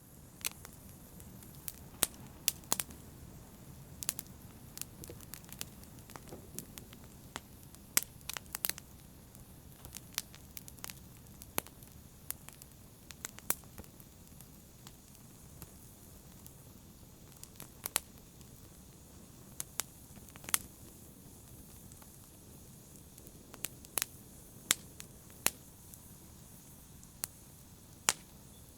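Wood fire crackling in a fireplace: irregular sharp pops and snaps, a few much louder than the rest, over a steady low rumble of burning.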